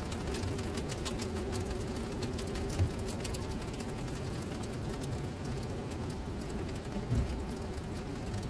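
Steady rain falling on a flooded paved surface, many drops pattering and splashing into standing water. A low rumble runs underneath, with two brief low thumps about three and seven seconds in.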